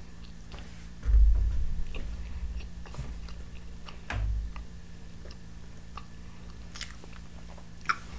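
Close-miked chewing of a mouthful of food, with scattered small wet mouth clicks and low thumps about a second in and again around four seconds in.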